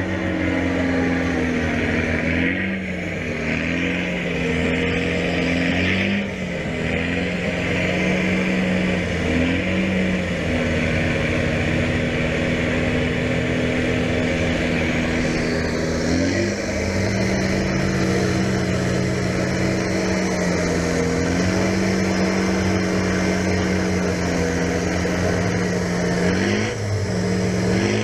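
Land Rover Defender engine revving hard while driving through deep mud. The revs rise and fall, holding steady for a few seconds between changes, with a quick climb in revs about sixteen seconds in.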